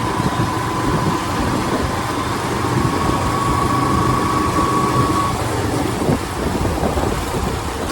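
Yamaha FZ motorcycle being ridden at low speed in traffic: steady engine, wind and road noise, with a thin steady high tone over it.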